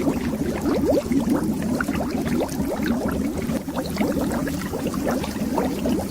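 Continuous stream of bubbles under water: many small bubbles rising and gurgling in a dense run of short upward-sliding blips, over a steady low rumble.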